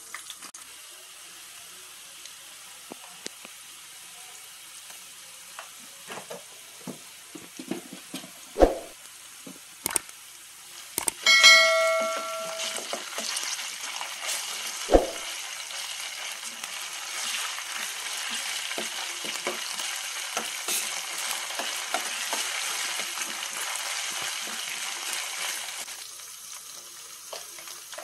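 Onions and green chillies sizzling in oil in a stainless steel kadai, with a metal spoon stirring and tapping against the pan. About eleven seconds in, a metallic clang rings out and the sizzling turns louder for some fifteen seconds before settling back near the end.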